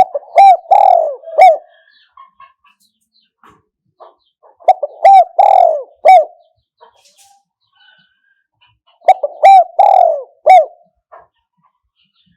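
Spotted dove cooing: three phrases of three or four coos each, one about every four and a half seconds. It is the call of a decoy dove used to lure wild doves.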